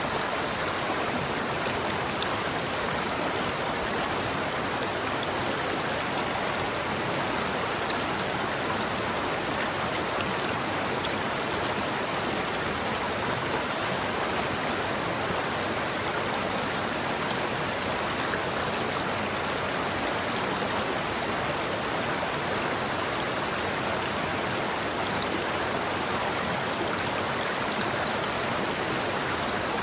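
River water flowing over rocks: a steady rushing and babbling with no breaks.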